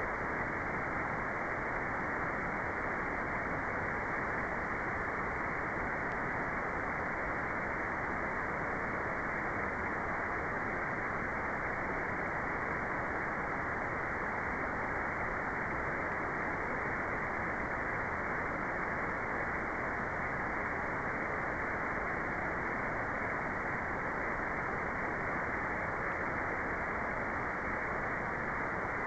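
Steady white noise: an even, unchanging hiss with no tone, rhythm or breaks.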